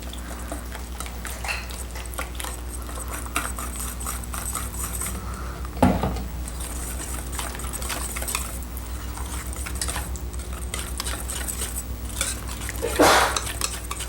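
A whisk beating quickly against the inside of a bowl, emulsifying a marinade as peanut oil is poured in, with a louder knock about six seconds in and another near the end.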